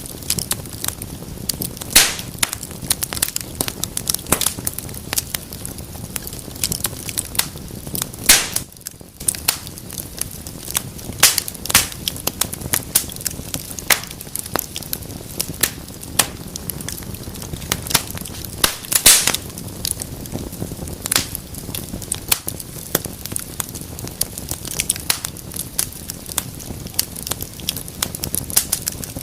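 Wood fire in a fireplace crackling steadily, with frequent sharp pops over a low hiss; the loudest pops come about 2, 8 and 19 seconds in.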